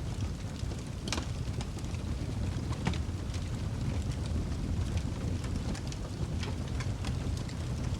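Wood fire in a fireplace burning with a steady low rumble and frequent irregular crackles and pops, two sharper pops about one and three seconds in.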